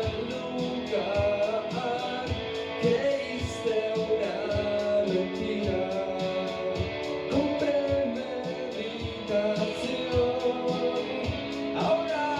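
Indie rock band playing live, a singer over electric guitars with a steady drum beat, about two beats a second. It is an ambient room recording of the show.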